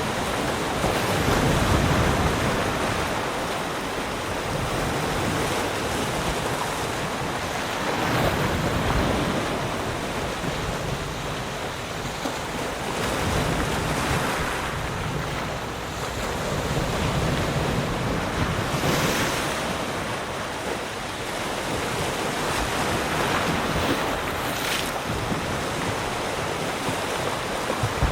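Ocean waves breaking and washing on a shore, a continuous rushing surf that swells and recedes every few seconds, with a hiss of wind.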